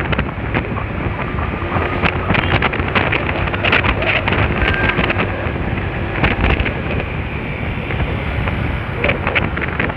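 Wind buffeting the microphone of a rider on a moving Honda Spacy scooter: a loud, steady rushing noise broken by many irregular gusty thumps.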